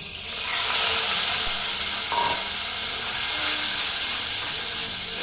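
Moong dal and dalia sizzling loudly as they are tipped into hot oil in an aluminium pressure cooker and stirred. The sizzle builds up within the first half second, then holds steady.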